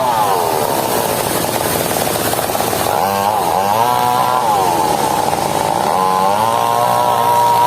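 Mobile circular sawmill cutting a log into building timber: its engine runs loudly, the note sagging under the load of the cut and climbing back several times, over the hiss of the blade in the wood.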